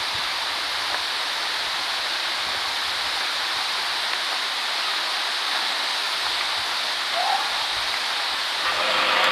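Waterfall water rushing in a steady, even hiss. A brief rising sound cuts in about seven seconds in, and near the end a steady hum and other sounds rise over it.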